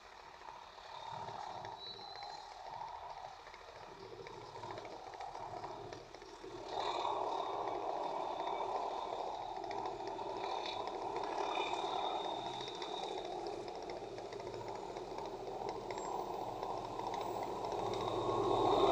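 Approaching train, heard as a steady rumble that steps up about a third of the way in and grows louder toward the end.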